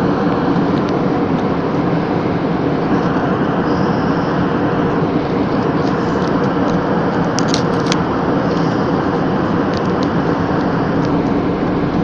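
Steady drone of an airplane in flight heard from inside the cabin, engine hum mixed with airflow noise. A few faint clicks come about two-thirds of the way through.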